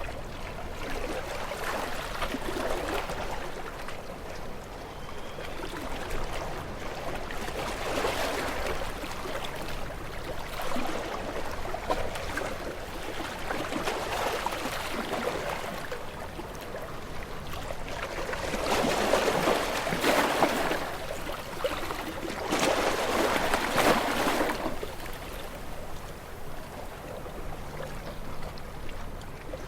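Gentle waves lapping on a shore, each wash swelling and fading every few seconds, with the loudest two in the second half.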